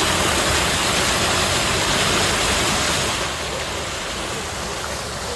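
Water running steadily, an even rushing hiss that gets a little quieter about three seconds in.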